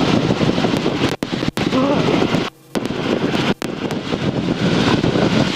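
Helicopter in flight heard from inside the cabin through the intercom: steady, loud rotor and engine noise, cut by several brief dropouts, the longest about two and a half seconds in.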